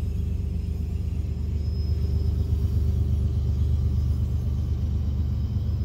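Diesel-electric locomotives of a heavy freight train, including a mid-train helper, chugging up a steep 2.5% mountain grade under load: a steady low rumble.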